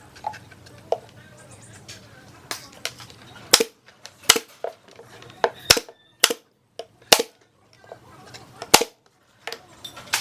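A string of irregular sharp knocks and clicks, about fifteen, each with a brief ring. The loudest come in the middle stretch.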